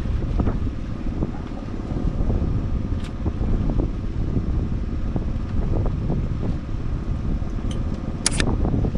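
Fishing boat's engine running steadily, a low hum and rumble, with wind on the microphone. A brief high-pitched squeak comes near the end.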